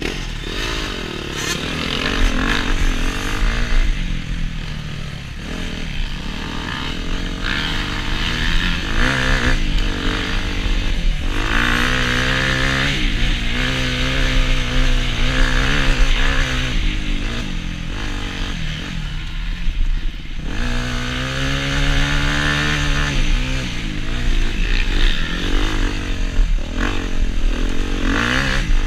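Suzuki RM-Z250 single-cylinder four-stroke dirt bike engine ridden hard on a trail. The engine pitch climbs and drops over and over as it accelerates, shifts and backs off, under a constant noisy rush.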